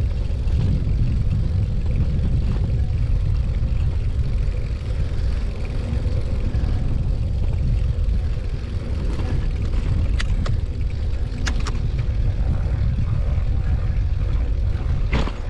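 Steady low wind rumble buffeting the microphone of a moving bicycle, with a few sharp clicks about two-thirds of the way through and again near the end.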